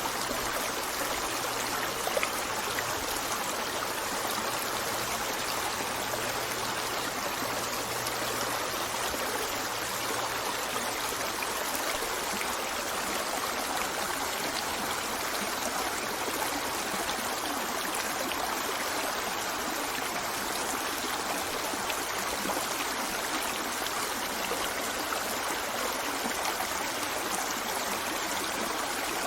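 Steady flowing water of a stream, an even continuous rush and trickle with no breaks or changes in level.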